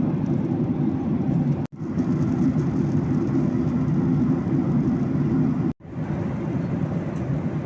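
Steady low rumble of a moving vehicle heard from inside, broken twice by a split-second drop to silence.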